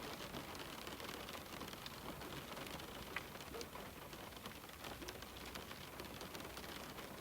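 Steady rain on a window: a constant hiss with many scattered, sharp taps of single drops.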